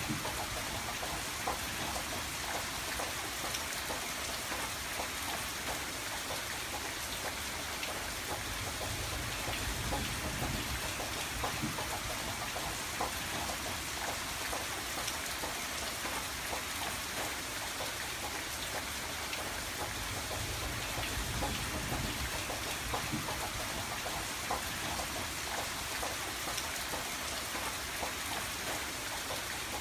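Steady rain pattering on window glass, with many individual drops ticking over a continuous hiss. A low rumble beneath swells and fades a few times.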